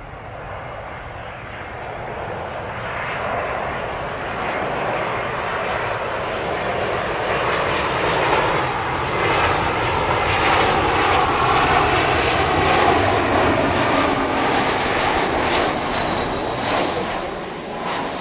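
Airbus A320-232 jet airliner on landing approach passing low overhead, its two IAE V2500 turbofan engines running. The roar builds to a peak about two-thirds of the way through and then fades, with a high whine falling in pitch as the jet goes by.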